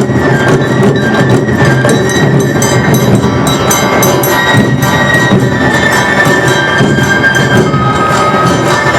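Awa odori festival band playing live: drums and a clanging hand gong keep a driving beat while bamboo flutes play a high, held melody.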